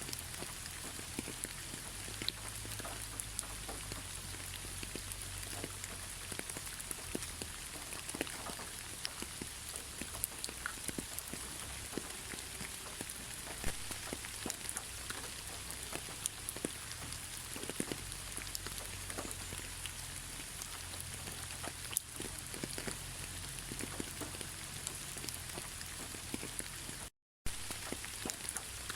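Steady rain: an even hiss with many separate drops tapping through it. The sound cuts out completely for a moment near the end.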